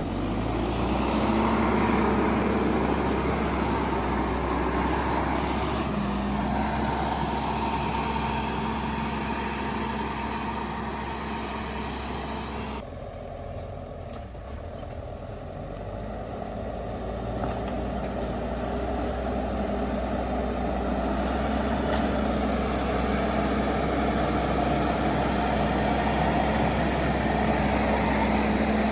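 Diesel engine of heavy earthmoving machinery running steadily. The sound changes abruptly about halfway through and then builds back to a steady run.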